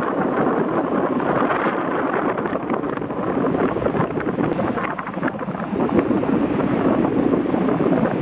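Strong sea wind buffeting the microphone, a steady rumbling rush that eases a little about five seconds in.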